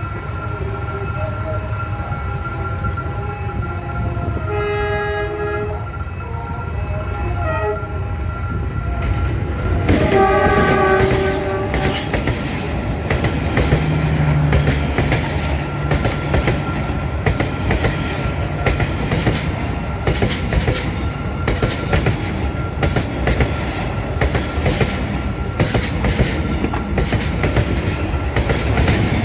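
A train running with a steady low rumble, sounding its horn twice: a fainter chord-like blast about five seconds in and a louder one about ten seconds in. After the second blast, rapid wheel clatter runs on.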